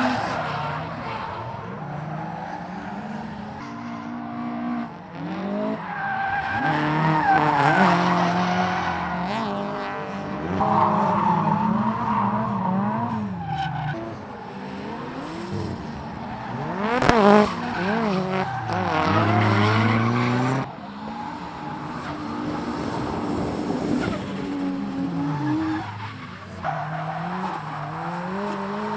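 Drift cars sliding with tyres squealing while their engines rev up and down over and over, the pitch climbing and dropping with each throttle blip and shift. About two-thirds of the way through comes one sharp bang, the loudest moment.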